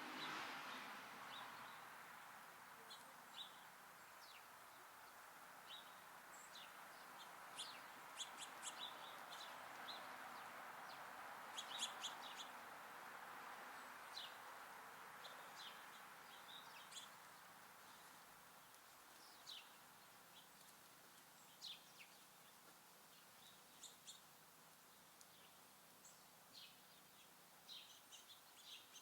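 Small songbirds giving short, high chirps, scattered throughout and faint, over a steady background noise that fades away over the first half.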